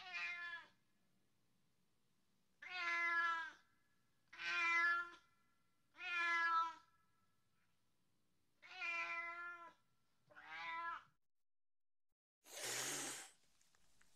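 A cat meowing six times, each meow under a second long and falling in pitch, a second or two apart. Near the end comes a short noisy burst with no clear pitch.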